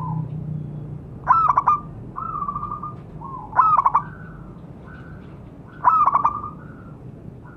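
Zebra dove cooing: three loud bursts of quick stuttering coo notes, about two and a half seconds apart, with softer trilled coos between them.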